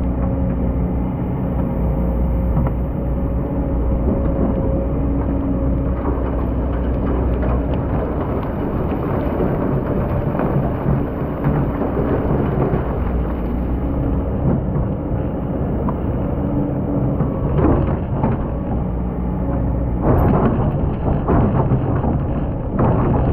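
Excavator working: its engine runs steadily with a low drone while the bucket scrapes and crunches through hard-packed sand. Sharper knocks and scraping come about two-thirds of the way in and again near the end.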